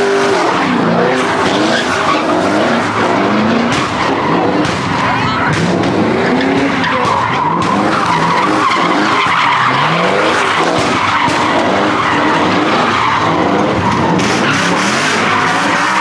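A car spinning its tyres in a burnout, the engine revving up and down again and again over a continuous tyre squeal.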